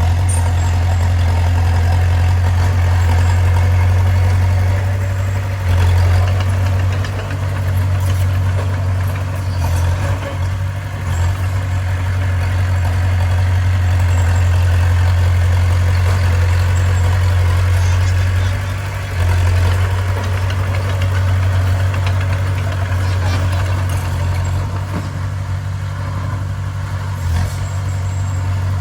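Heavy machinery's diesel engine running steadily with a deep, even drone, easing off and picking up again briefly a few times.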